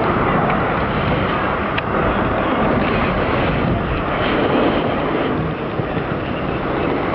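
Jet noise from a Rockwell B-1 Lancer bomber flying past: a loud, steady rushing rumble that eases slightly over the last couple of seconds.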